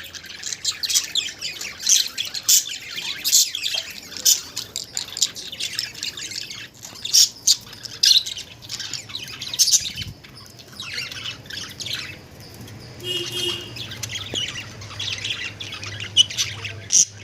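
Pet budgerigars chattering without pause: a dense stream of short high chirps and warbles broken by frequent sharp squawks.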